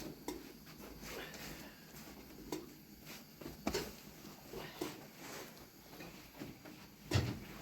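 Scattered light knocks and handling noises at an uneven pace, with one louder thump about seven seconds in.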